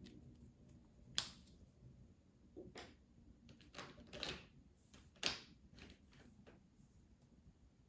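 Faint colouring sounds: short scratchy strokes of a pen or pencil on paper, with two sharp clicks of the colouring tools, about a second in and again about five seconds in.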